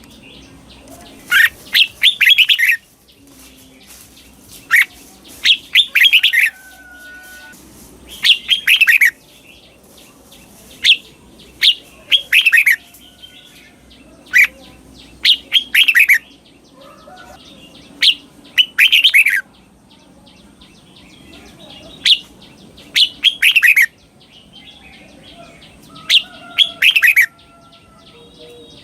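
Red-whiskered bulbul singing its doubled ('เบิ้ล') song. Each phrase is a quick run of falling whistled notes, and the phrases repeat about every three to four seconds.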